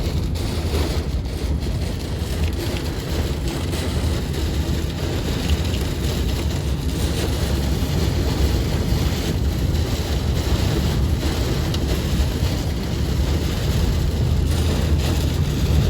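Car driving through a heavy rainstorm: a steady low road rumble under a continuous hiss of rain and wet-road spray.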